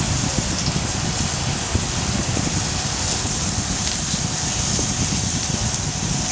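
Wood fire burning in a Picogrill fire stand, fed with slightly damp gathered wood: a steady hiss with scattered small crackles.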